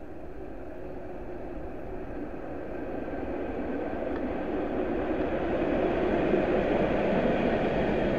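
A train passing through the station on the main line, its rumble and rail noise growing steadily louder.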